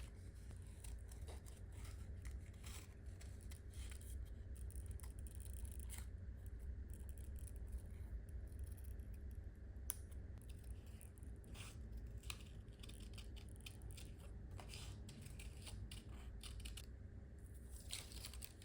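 Scissors snipping through paper or sticker sheet in short, irregular cuts, over a faint steady low hum.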